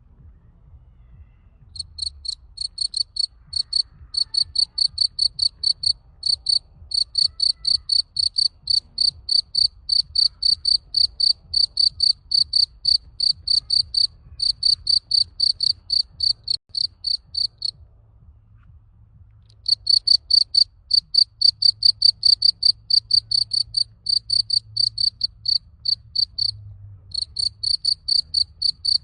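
A cricket chirping loudly and close by, in an even run of short, high-pitched chirps at about four to five a second, with a brief pause partway through.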